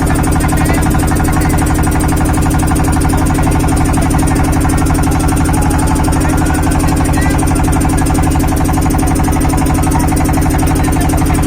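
A steady, loud, low mechanical drone with a fast, even pulse, like a motor running.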